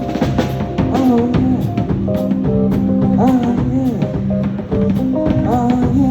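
Live band playing: drum kit keeping a steady beat under a bass line and sustained chords, with a melody line bending up and down in pitch.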